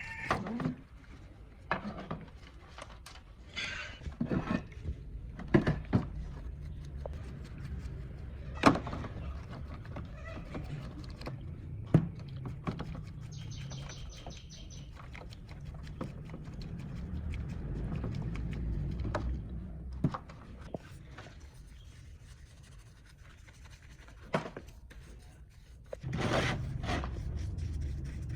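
Irregular sharp clicks and knocks of parts and hand tools being handled over a low steady rumble, with a brief high squeak about halfway through and a louder scraping noise starting near the end.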